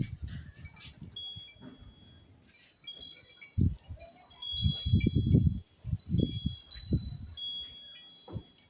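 Wind chime ringing: high, clear notes at several pitches sounding irregularly and overlapping as the chimes are knocked together. Low rumbling gusts of wind buffeting the microphone come and go several times and are the loudest part.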